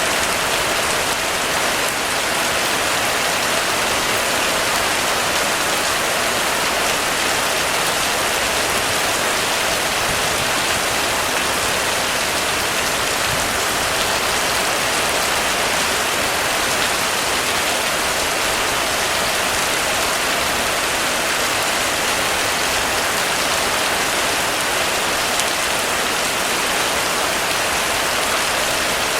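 Heavy rain falling steadily on a roof, a dense, even hiss with no let-up.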